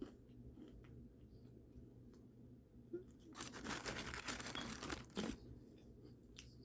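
Paper food wrapping crinkling and tearing for about two seconds, near the middle, amid faint small clicks of eating.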